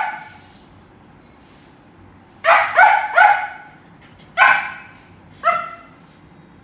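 A dog barking. A quick run of three barks comes about two and a half seconds in, then two single barks about a second apart.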